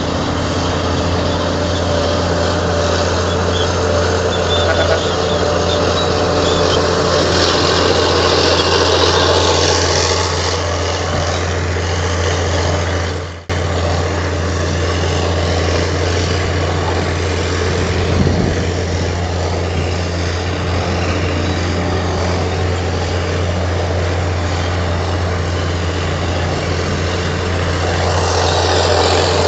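Heavy diesel engine of a crawler bulldozer running steadily under load, a deep even drone with mechanical clatter above it. The sound drops out for a moment about halfway through and then picks up again.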